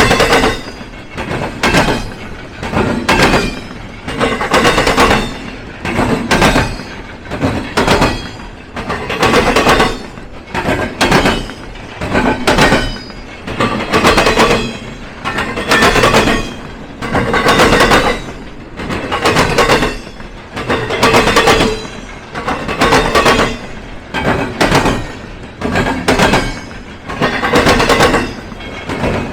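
Train passing over a railroad diamond crossing, its wheels banging across the crossing's gaps: a steady rhythm of loud clattering groups, about one every second and a half to two seconds, as each car's wheel sets cross.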